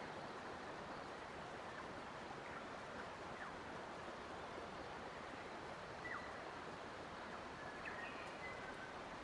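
Steady rush of flowing water with faint, brief bird chirps and whistles scattered through it, a small cluster of them near the end.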